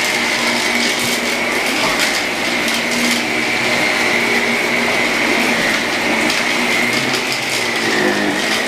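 Electrolux vacuum cleaner running steadily with a high whine, sucking up spilled debris, with scattered clicks and rattles as bits go up the intake.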